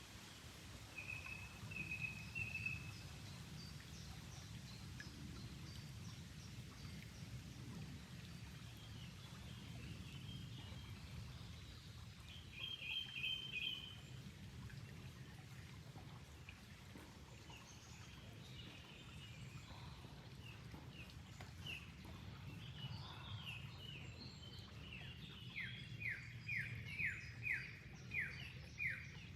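Small birds chirping and calling over a steady low rush of flowing water, with a brief trill midway. Near the end one bird gives a run of quick downward-sweeping notes, about two a second.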